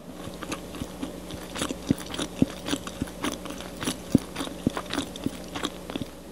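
Someone chewing a bite of soft, moist caramel marble pound cake close to the microphone: a run of irregular mouth clicks and smacks, a few every second.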